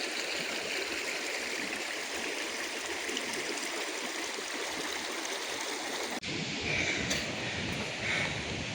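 Steady rush of river water tumbling over falls. About six seconds in, the sound cuts abruptly to a deeper, rumbling rush with wind buffeting the microphone.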